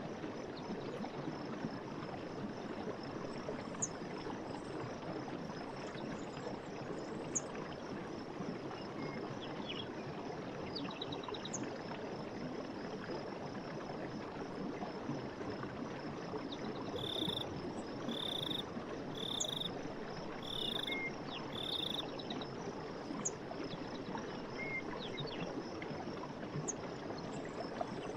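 Stream water running steadily, with scattered short bird chirps and a steady high insect drone. Midway through comes a run of five short calls about a second apart.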